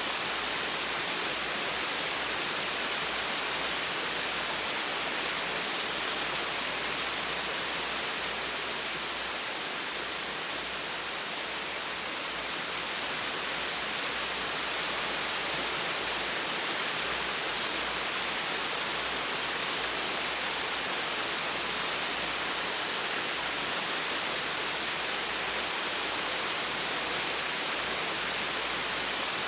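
Gentle waterfall splashing steadily, an even hiss of falling water with no breaks or other sounds.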